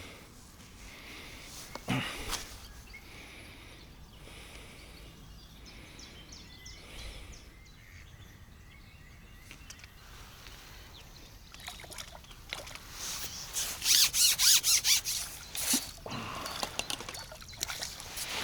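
Outdoor lakeside background with faint bird calls, a sharp knock about two seconds in, and a burst of rapid water splashing about thirteen seconds in that lasts a couple of seconds.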